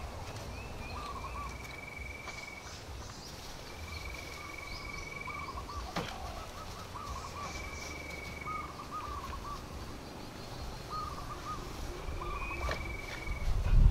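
Wild birds calling: a short warbling call repeated about once a second and a higher, drawn-out whistled note every few seconds. A single sharp knock comes about halfway through.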